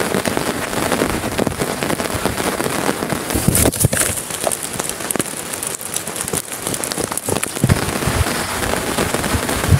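Heavy rain striking a plastic tarp and umbrella overhead: a dense steady hiss packed with sharp, crackling drop hits.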